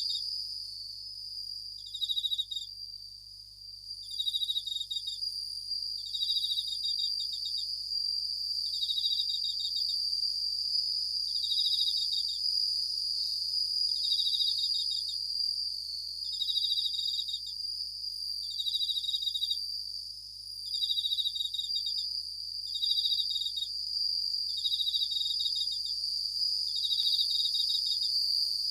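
Japanese bell crickets (suzumushi) singing: a ringing trill, each burst under a second long, repeating about every two seconds over a steady high-pitched hiss.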